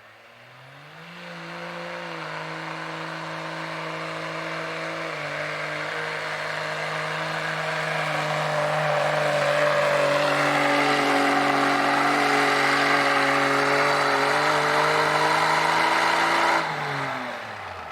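Diesel pickup engine in a 2.6-class truck pull at full throttle, pulling a sled. It revs up about a second in and holds a steady high rpm, growing louder as the truck comes closer. Near the end the revs drop off quickly as the throttle is released at the end of the pull.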